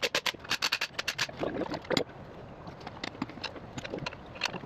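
Quick, irregular metallic clicks and clinks of hand tools working on fittings, thinning out about two seconds in and picking up again near the end.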